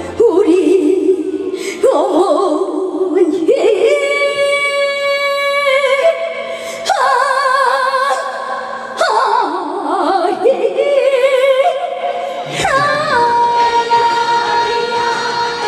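A female trot singer's voice singing long held notes with a strong, wavering vibrato over backing music, with a final note held steadily near the end.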